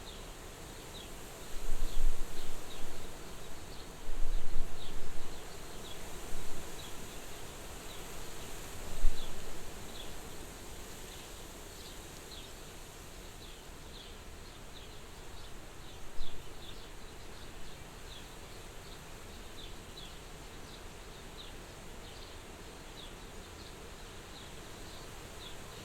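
Soft wind blowing at a farmhouse window, a steady hiss broken by several low rumbling gusts in the first half. Faint short high chirps repeat irregularly about once or twice a second.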